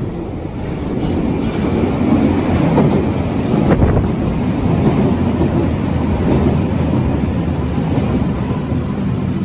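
Berlin U-Bahn train running by, a loud rushing rumble that builds over the first two seconds and then holds steady, with a single sharp click about four seconds in.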